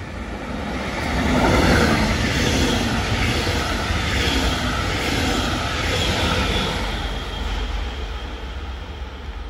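Red double-deck regional train with an electric locomotive running through the station at speed: a rushing din of wheels on rail that builds over the first couple of seconds, stays loud while the coaches pass, then eases as the train draws away.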